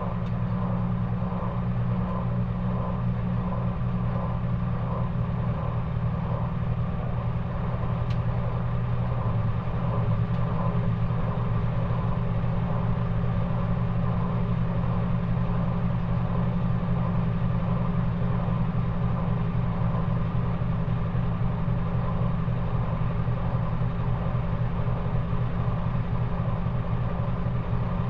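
Maytag washing machine running through a cold wash cycle with a steady motor hum.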